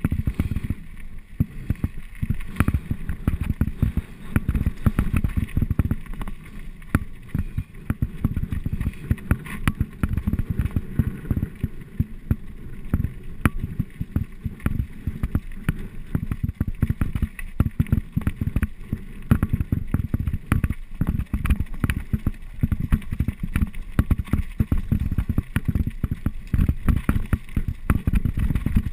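Mountain bike descending a rough trail at speed: wind buffets the microphone in a constant low rumble, with frequent clicks and rattles from the bike jolting over the ground.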